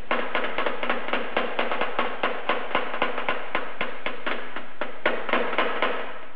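Hammer tapping a sealed ball bearing into its carrier in a Bridgeport milling machine's variable speed pulley assembly: quick, even, light metal-on-metal taps, about five a second, each with a short ring.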